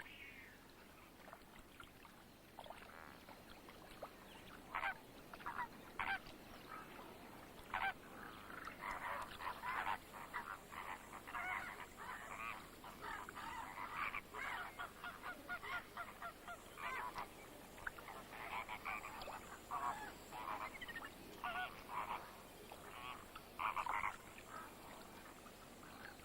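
A flock of flamingos calling: many short, goose-like honks overlapping into a busy chatter. The calls are scattered at first and grow thick and continuous about a third of the way in.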